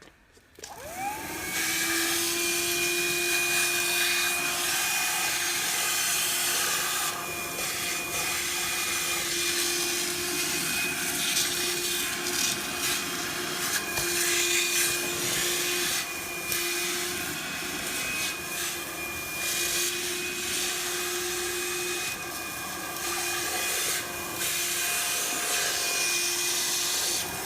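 SOWTECH cordless stick vacuum with a small crevice-type attachment, switching on about a second in with a rising whine, then running steadily with a high whine while it sucks spilled rice out of the floor cracks. Its level dips and recovers now and then as it works.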